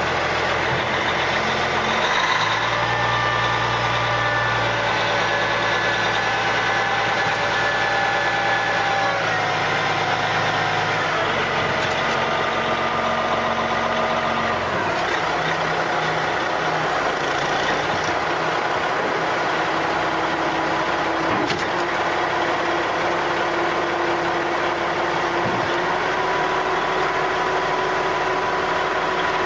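Caterpillar 3406B diesel engine of a 1991 Western Star dump truck running as the truck is driven around, its engine speed stepping up and down several times in the first fifteen seconds, then running more evenly.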